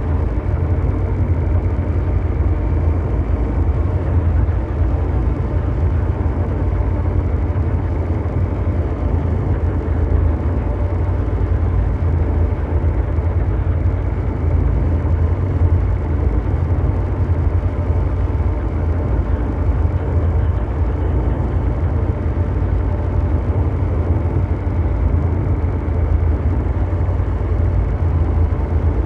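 Ambient mechanical drone noise: a steady, deep rumble like brown noise, heaviest in the bass, with faint steady hum tones above it and no change in level.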